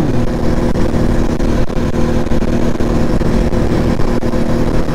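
Yamaha Raptor quad's single-cylinder engine running steadily under way, its pitch holding even at a constant speed.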